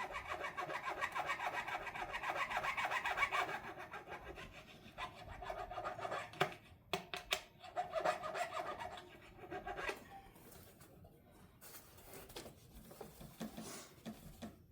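Rapid back-and-forth rasping strokes of hand smoothing work on a guitar, in two spells, with a few sharp clicks between them about six to seven seconds in. Fainter rubbing follows near the end.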